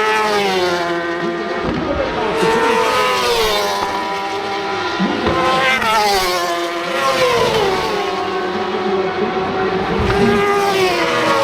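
Superbike racing motorcycles' engines running hard at high revs, the engine note climbing and dropping back several times as the riders accelerate and change gear.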